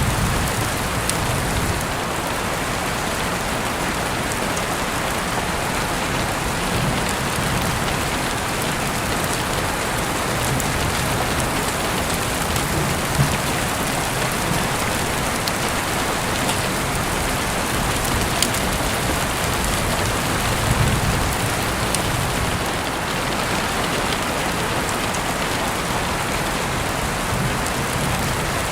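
Heavy rain falling steadily, an even hiss of rain on a surface, with a few sharper drop ticks standing out now and then.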